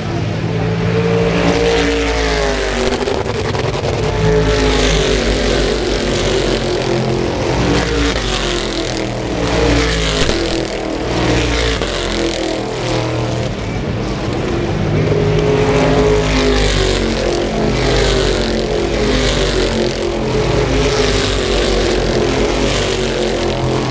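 Stock car engines running hard as the cars go by, several engine notes overlapping and the pitch rising and falling with throttle and gear changes.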